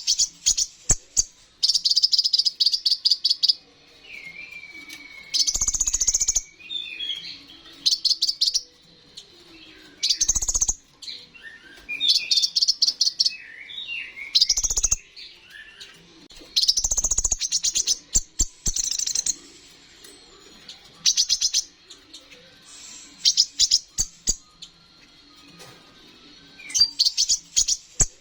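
Kolibri ninja sunbird singing nonstop in bursts of rapid, high, chattering trills every second or two, with lower warbled whistles between the bursts.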